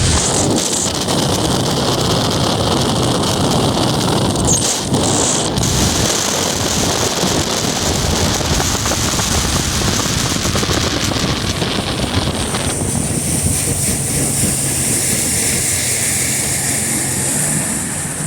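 Mercury 200 Optimax two-stroke V6 outboard running at speed on a bass boat, under heavy wind buffeting on the microphone. The engine's low hum comes through more clearly in the last few seconds.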